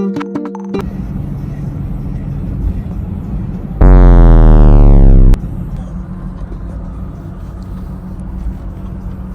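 Steady low rumble of road noise inside a moving car. About four seconds in, a very loud pitched tone slides steadily downward for about a second and a half, then cuts off.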